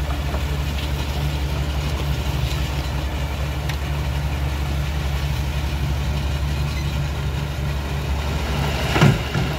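Truck engine idling steadily with an even low drone. Near the end there is one brief loud burst.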